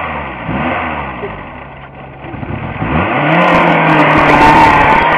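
Car engine revving up and down several times, then climbing to a higher held pitch about three seconds in, with irregular clattering noises joining near the end.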